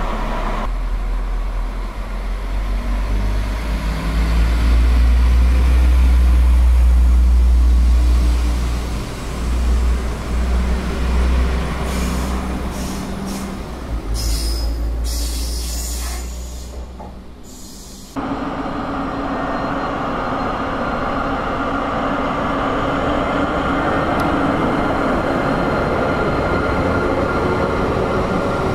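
Diesel multiple unit's engine running with a deep rumble that swells and then fades as the unit pulls out. After an abrupt cut, a passenger train hauled by a Pesa Gama SU160 diesel locomotive rolls past, with a steady noise of wheels on rail.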